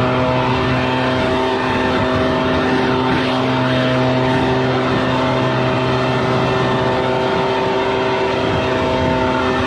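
Small petrol engine held at a steady high speed. It was throttled up just beforehand and drops back just after.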